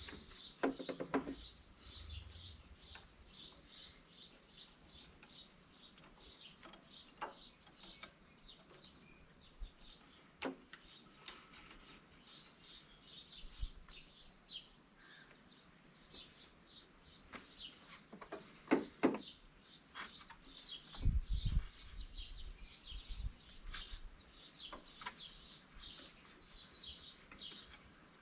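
Small birds chirping, a steady run of short high chirps about three a second, with a few sharp knocks and a low thump near the end.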